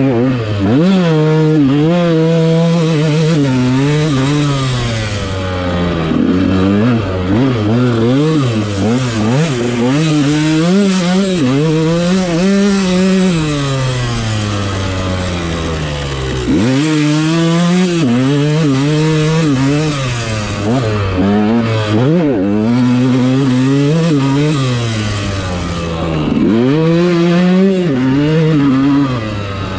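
Dirt bike engine being ridden hard, its pitch rising and falling over and over with the throttle, with sharp drops and climbs again about halfway through and near the end as the rider shifts and gets back on the gas.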